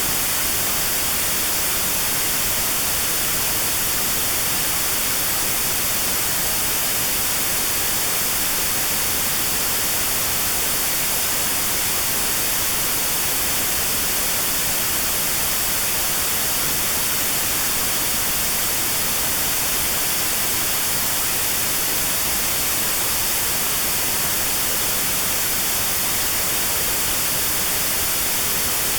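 Steady white noise with a narrow band notched out around 4 kHz, generated as notched sound therapy for tinnitus.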